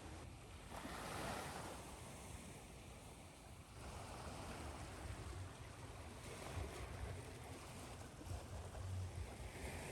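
Ocean surf washing onto a shore, a steady hiss of water with swells building about a second in and again around four seconds, over a low rumble.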